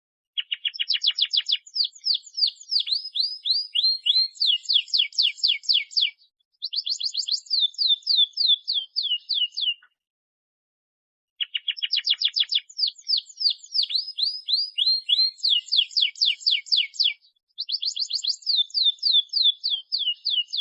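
Domestic canary singing: fast rolling trills of rapid repeated high notes in phrases a few seconds long, with a pause of about a second and a half near the middle. It is the full, continuous 'gacor' song used as a lure to set other canaries singing.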